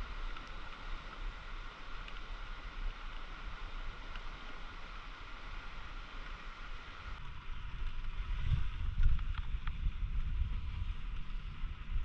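Steady rushing outdoor noise. From about seven seconds in, an uneven low rumble of wind buffeting the microphone takes over.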